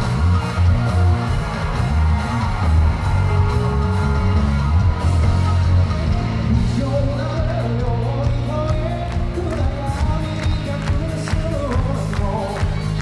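Japanese rock band playing live, with a heavy bass-and-drum low end under guitars and a voice singing; a wavering melody line comes forward about halfway through, with sharp drum hits growing denser toward the end.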